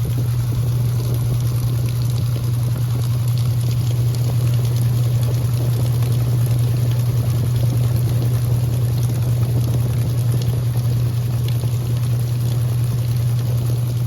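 Electrolux LE06DBD top-load washing machine running, with a steady motor hum under the rough, continuous sound of water churning in the tub.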